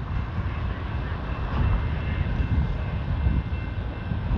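Freight train rolling past: a steady low rumble, with a faint high steady tone from about a second in.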